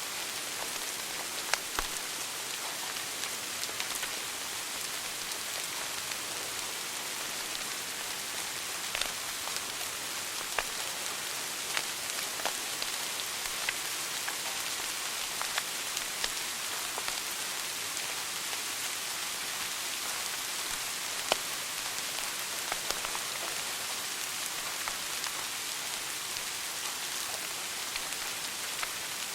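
Wood fire burning in a fireplace: a steady hiss with irregular sharp crackles and pops, one louder pop about two-thirds of the way through.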